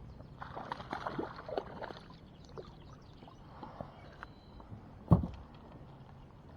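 Water splashing and small knocks around a small fishing boat, with one sharp, loud thump about five seconds in.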